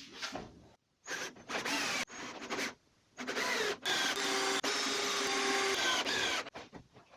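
Power drill running in several short bursts and then one longer steady run of about two and a half seconds, pre-drilling and driving screws into wooden beams.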